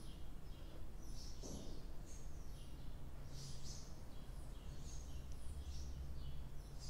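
Small birds chirping in quick high clusters, about one cluster a second, over a steady low background hum.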